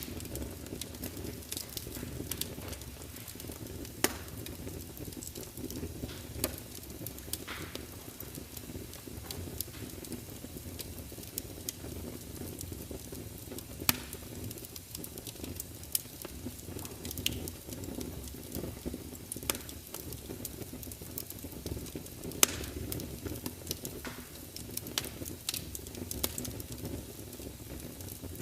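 Log fire in a large open fireplace crackling, with a steady low rumble of the flames and scattered sharp pops, the loudest about 4, 14 and 22 seconds in.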